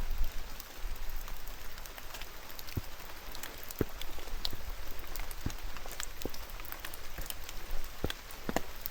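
Steady rain falling, with single drops striking close by as sharp, irregular ticks over the even patter.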